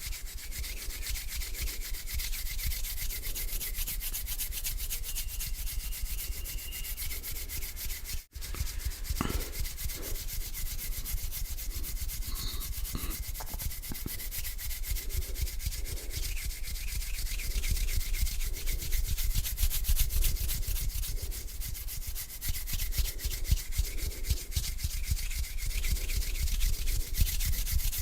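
Palms rubbing together in slow, continuous strokes, a dry swishing friction close to the microphone, with a brief break about eight seconds in.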